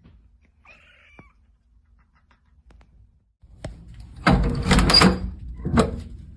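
A brief, faint cat meow about a second in, then a burst of loud knocks and clattering a few seconds later, with one more knock near the end.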